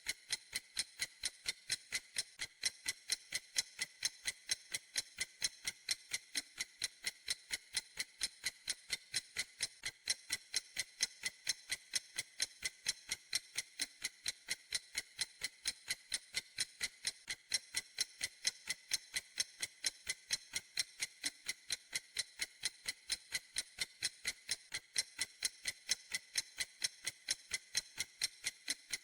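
Clock ticking steadily: crisp, evenly spaced ticks at about three a second, with no variation in speed or loudness.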